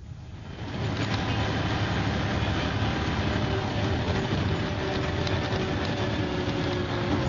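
MCW Metrobus double-decker bus running along, its engine and transmission making a steady drone with whining tones. The sound drops out abruptly at the start and builds back over about a second.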